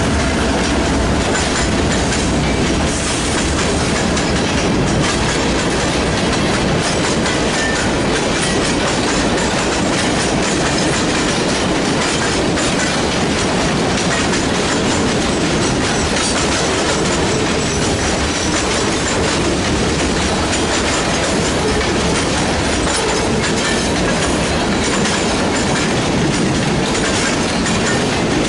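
Freight train rolling past, its railcar wheels making a steady clatter and rumble over the rail joints.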